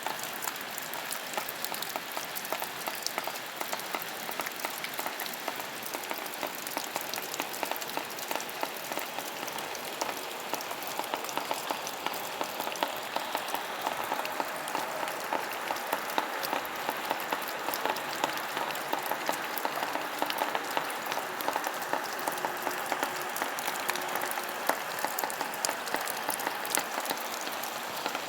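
Steady rain falling, with many short, sharp drop hits over an even hiss.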